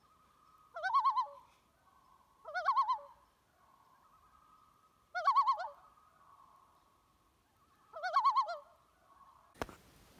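A bird giving a quavering call four times, each call under a second long, over a faint steady tone. Near the end there is a click, then a steady hiss.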